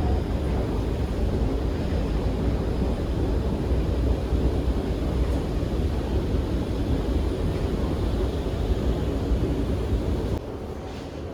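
Steady low rumble of a moving train, dropping suddenly to a quieter level about ten seconds in.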